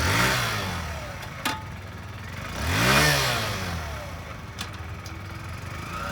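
Kawasaki Z125 Pro's 125 cc single-cylinder engine blipped twice: the revs fall away at the start, climb again to a peak about three seconds in, then drop back to idle. A sharp click sounds about a second and a half in.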